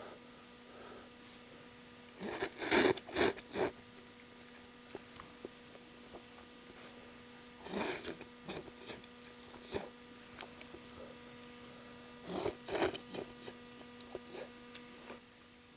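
Slurping udon noodles in three bouts of short, noisy sucks, about two seconds in, about eight seconds in and near the end. A faint steady hum runs underneath.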